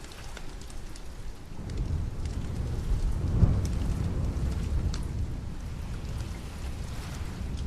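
Steady rain falling, with a low roll of thunder that swells about a second and a half in, peaks around the middle and slowly fades. A few sharp crackles sound through the rain.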